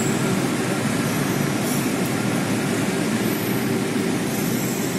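A train running through the station on a nearby track, a steady rumble of wheels and motors on the rails.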